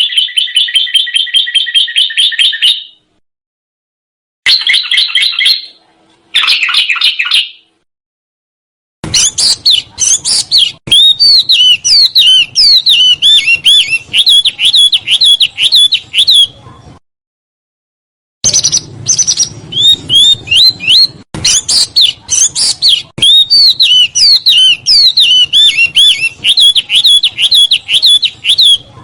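Recorded songbird song: a rapid buzzing trill, then two short trill bursts, then from about nine seconds in two long runs of very fast, sweeping chattering notes separated by a brief gap, each starting and stopping abruptly.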